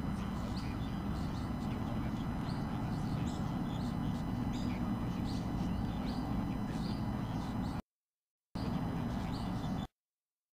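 Small bird chirping over and over, a short high chirp about twice a second, over a steady low rumble. The sound cuts out to silence briefly about eight seconds in and again just before the end.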